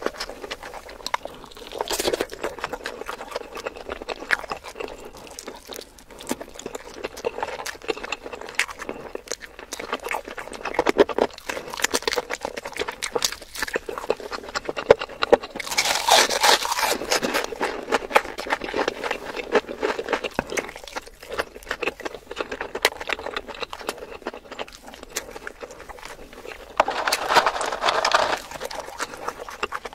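Close-miked chewing and lip-smacking of a person eating whole chicken, a dense run of wet mouth clicks. It swells into two louder, longer stretches, about halfway through and near the end.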